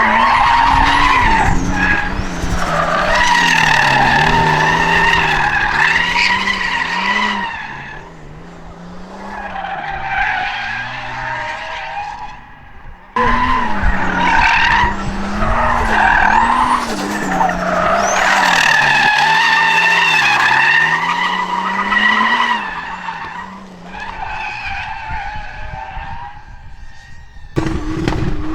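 Drift cars sliding, engines revving up and down while the tyres screech loudly. Two long slides, each dying away, with the second starting abruptly about thirteen seconds in and another abrupt change near the end.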